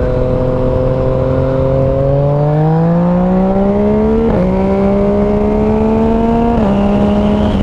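Yamaha MT-09's 847 cc inline-three running through a new Arrow Thunder slip-on exhaust as the bike accelerates. The engine note holds steady, then climbs, with two quick upshifts: the pitch drops sharply about four seconds in and again near the end.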